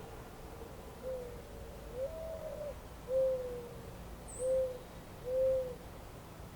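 A bird's low hooting call, five soft hoots in a row: a short first note, a longer one that rises in pitch, a falling one, then two short ones, over a steady low outdoor hiss. A single brief high chirp from a small bird comes midway.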